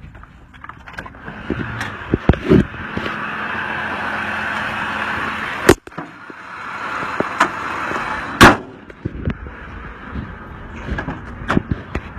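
Supercharged V8 truck engine building up under acceleration, twice. Near the middle and again a little later a sharp loud click breaks in; the first is followed by a brief dropout.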